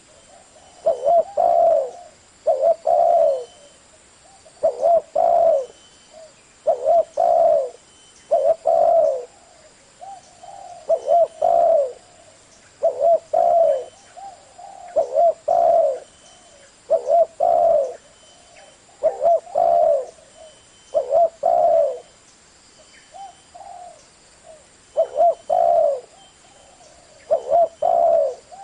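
Spotted dove cooing: a steady series of low, hollow multi-note coo phrases, repeating roughly every one to two seconds.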